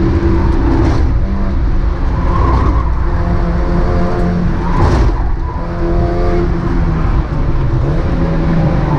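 Mazda MX-5 race car's four-cylinder engine running hard at racing speed, its pitch stepping up and down as the revs change. There are short sharp disturbances about a second in and again around five seconds in.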